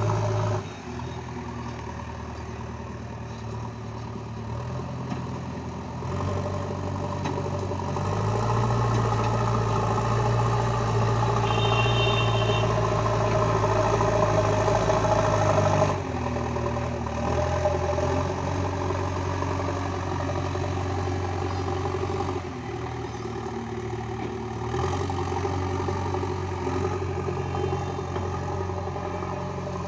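Diesel engine of a JCB 3DX backhoe loader running and working, its note stepping up and down as the load changes; it is loudest for several seconds in the middle. A brief high beep sounds about midway.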